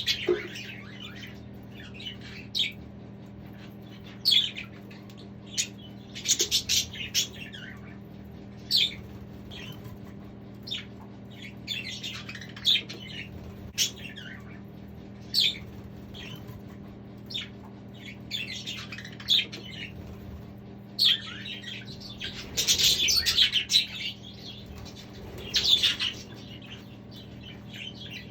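Budgerigars chirping and chattering in an aviary: short calls every second or so, with a denser burst of chatter about three-quarters of the way through, over a steady low hum.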